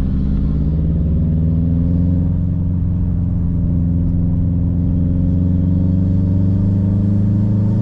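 Turbocharged car engine pulling hard under acceleration, its pitch rising slowly and steadily as the revs climb.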